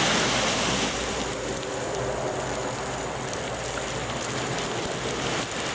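Large wood bonfire burning, a steady hiss with scattered sharp crackles.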